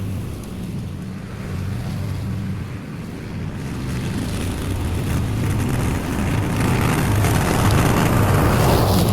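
Lawn mower engine running steadily while cutting tall, overgrown grass, growing louder over the second half.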